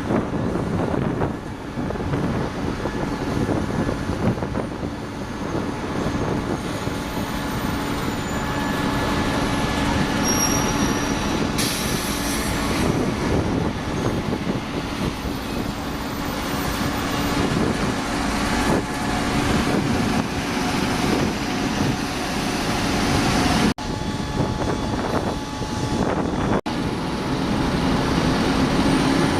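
Heavy vehicle engine running close by, a steady hum over dense mechanical noise, with a short hiss of air about twelve seconds in. The sound drops out briefly twice near the end.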